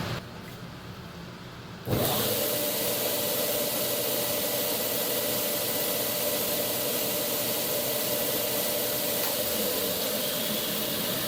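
Belt sander switched on about two seconds in and running steadily: a motor hum under an even hiss from the spinning belt.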